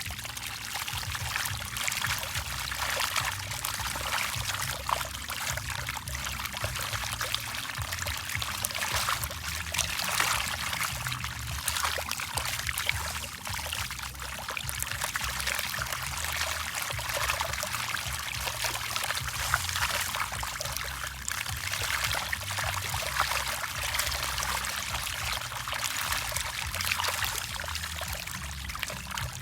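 Many fish feeding at the water surface, a steady churning of small splashes and slurps, with a low rumble underneath.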